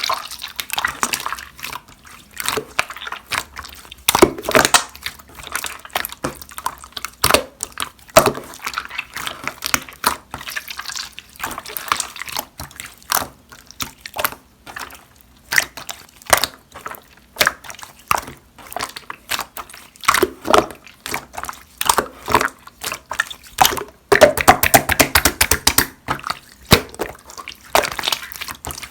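Clear slime being squeezed and pressed by hand, giving irregular clicks and pops, with a dense run of quick crackling pops near the end.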